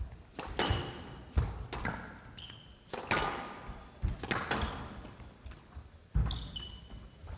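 A squash rally: the ball struck by rackets and smacking off the court walls about once a second, with short high squeaks of court shoes on the wooden floor three times.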